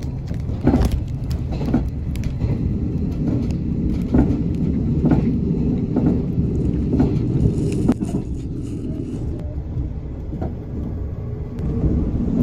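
Running noise inside the cabin of a JNR Series 381 electric limited express train: a steady low rumble with irregular knocks.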